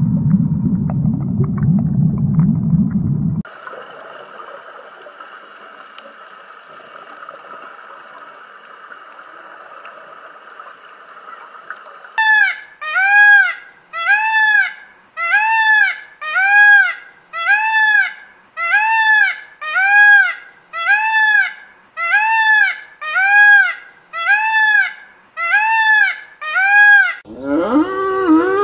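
An Indian peacock calling over and over, about fifteen loud rising-and-falling cries at roughly one a second. Before the calls come a low underwater rumble that cuts off a few seconds in and a stretch of quieter steady background. Near the end a European bison gives a low grunt that falls in pitch.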